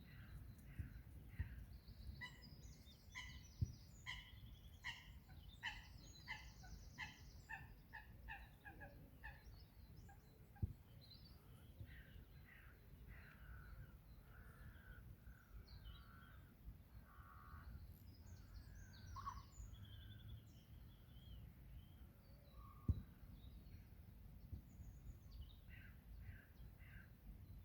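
Faint birdsong and bird calls over a steady low rumble. A run of repeated call notes comes about twice a second in the first third, with scattered calls after. A few short soft knocks stand out above the rest.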